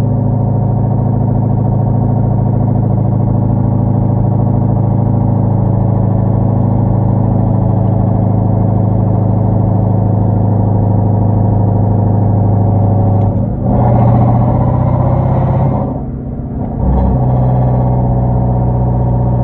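Hyundai Genesis 5.0 sedan's V8 running steadily at cruise through a straight-piped 2.5-inch exhaust with Flowmaster Super 10 mufflers and no catalytic converters. About thirteen seconds in it swells louder under throttle, drops away briefly near the end, then settles back to a steady note at a slightly higher pitch.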